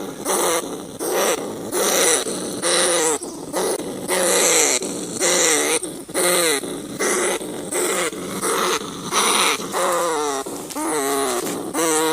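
Rats squealing and crying in a rapid series, about two short wavering cries a second.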